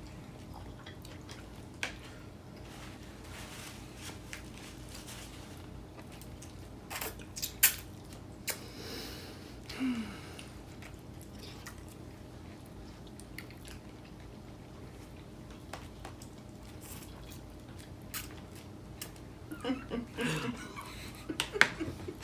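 People eating takeout food: quiet chewing with occasional clicks and taps of utensils and dishes, the sharpest a pair of clicks about seven seconds in, over a steady low hum. Brief voice sounds come in near the end.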